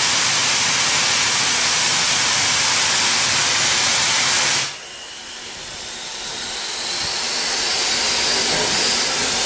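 Steam hissing loudly from a steam locomotive. It drops off sharply about halfway through, then a quieter hiss slowly grows louder.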